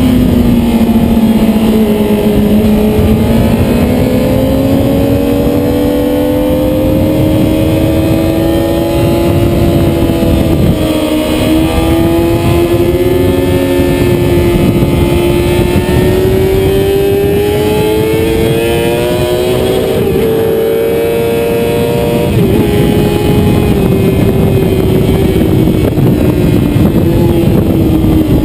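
Motorcycle engine running hard at high revs, its pitch climbing and falling as the bike accelerates and slows through a lap, with quick drops in pitch about eleven seconds in and again near twenty-two seconds.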